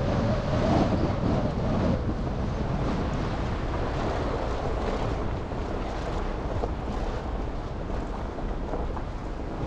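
Steady road and traffic noise from a car driving on city streets after snow, with wind on the microphone.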